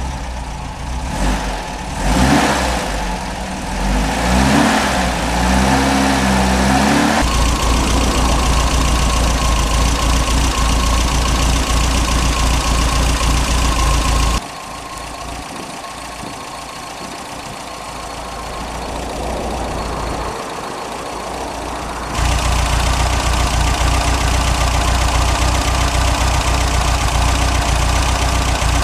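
MGB's 1.8-litre B-series four-cylinder engine with twin SU carburettors running: revved up and down a few times in the first seven seconds, then idling steadily. For several seconds in the middle the idle is quieter, then it comes back as loud as before.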